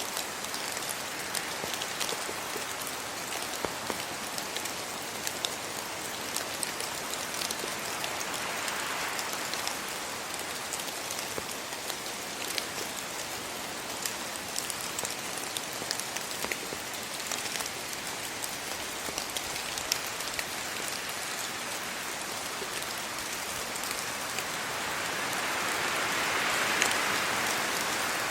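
Steady rain falling on leaves and ground, with many individual drops ticking through the hiss. The rain noise swells twice, about a third of the way in and near the end, as wind gusts through the trees.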